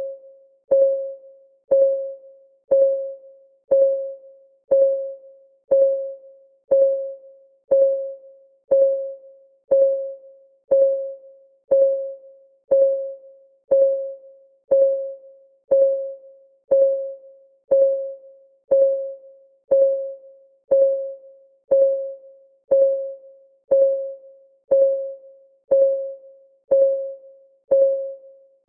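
Clock ticking sound effect: a short, pitched tick once a second that rings briefly and dies away, with a fainter tick between each pair.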